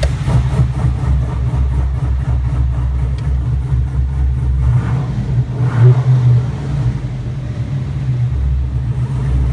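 GM LS3 6.2-litre V8 in a 1965 Corvette idling with its exhaust cutouts open, the exhaust leaving through the side pipes instead of the Magnaflow rear mufflers. It swells briefly in loudness about six seconds in.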